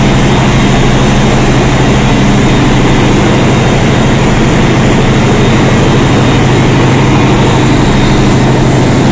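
Loud, steady noise of diesel machinery running in a ship's engine room: a constant low hum under a dense, even din that does not change.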